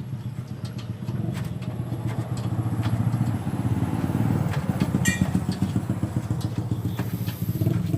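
A vehicle engine running steadily with a low pulsing note, a little louder after the first few seconds. A brief high chirp sounds about five seconds in.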